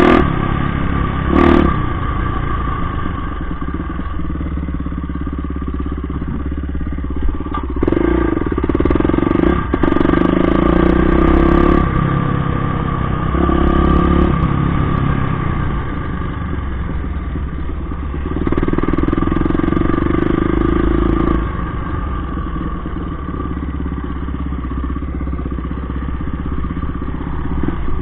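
Motorcycle engine running steadily, with the revs raised for a few seconds at a time, three or four times.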